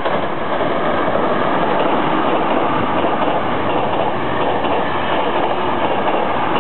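Hankyu 9300 series eight-car electric train passing close at speed without stopping: a loud, steady rumble of wheels on the rails.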